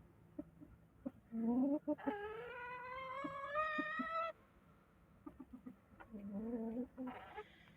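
Aseel rooster crowing: one long crow of about three seconds that slowly rises in pitch, then a shorter call near the end.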